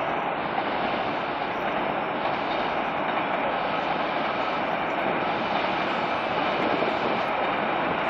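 Seoul Metro Line 1 rheostatic-control electric train running across a steel girder railway bridge: a steady rumble of wheels on the track and bridge.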